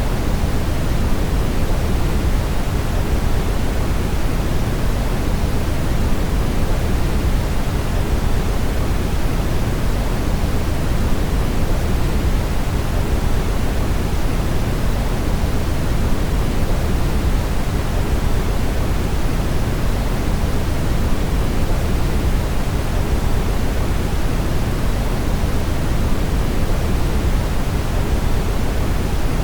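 Brown noise: a steady, even rushing hiss weighted toward deep low frequencies, unchanging throughout.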